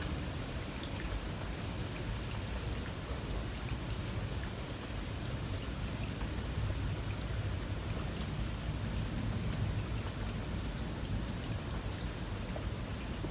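Light rain falling steadily in a residential area, with scattered drops ticking on nearby surfaces over a steady low rumble, and a faint high insect trill.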